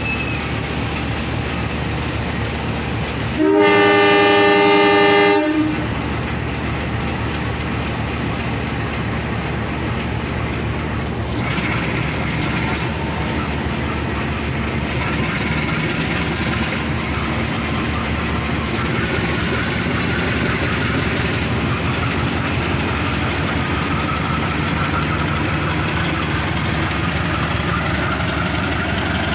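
A train horn sounds once for about two seconds, a few seconds in, and is the loudest moment. It is followed by the steady noise of a train running past.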